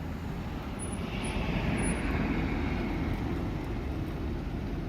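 A road vehicle passing by, its noise swelling about a second in and easing off toward the end.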